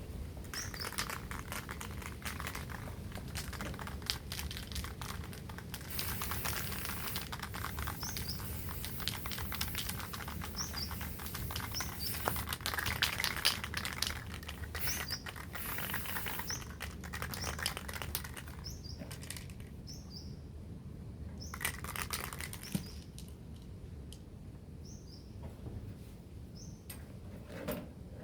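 Aerosol spray-paint can hissing in bursts of a few seconds while a bird cage is sprayed, among small clicks. A small bird chirps in short, repeated notes throughout.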